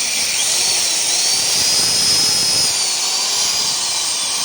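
An electric grinder running against steel: a steady hiss with a high motor whine that rises, holds, then dips in pitch.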